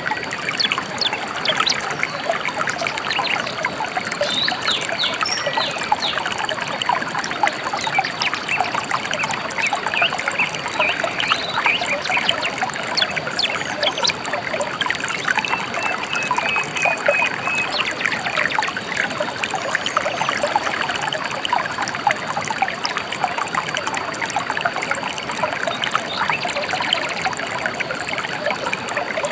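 Gentle river trickling and burbling steadily. A short series of bird notes comes about halfway through.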